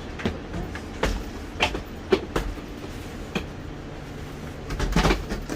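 Train at a station: a steady rumble broken by sharp knocks and clatters, the loudest about five seconds in, with a low steady hum setting in about halfway through.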